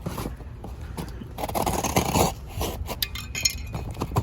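A cardboard shipping box being opened by hand: scraping, rustling and tearing of cardboard with a few sharp clicks, busiest about halfway through.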